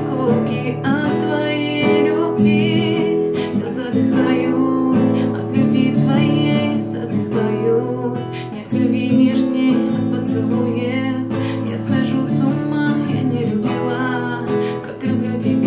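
Song music led by a strummed acoustic guitar, with regular strokes and a steady chord accompaniment.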